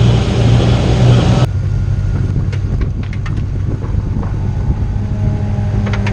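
LS1 V8 engine in a BMW E30 running hard, then the throttle is lifted about a second and a half in and it drops abruptly to a low, steady engine note with a few light ticks.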